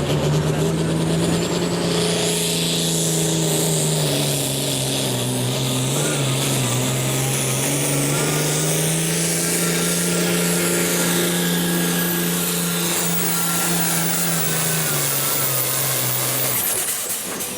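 Hot stock pulling tractor's turbocharged diesel engine held wide open under the load of the sled, with a high turbo whistle over a steady engine note. Near the end the engine backs off, the whistle falls away and the sound drops, as the run finishes.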